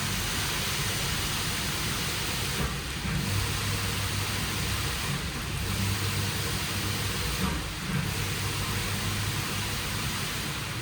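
WashTec SoftCare² Takt rollover car wash running: steady hiss of water spraying over a low machine hum. The hiss thins briefly three times, about every two and a half seconds.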